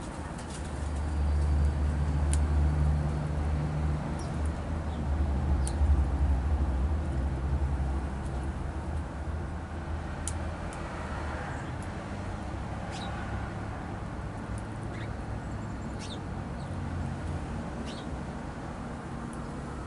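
A vehicle passing by with a low rumble that swells about a second in and fades after several seconds, while small birds give short, high chirps scattered throughout.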